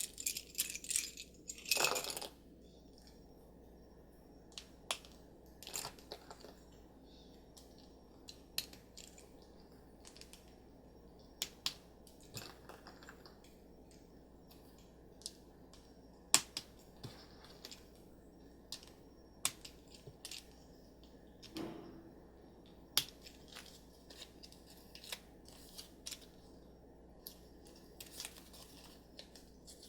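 Scattered small clicks, taps and short rustles of hands handling a small plastic toy bracelet and its sticker sheet while the stickers are peeled and pressed on.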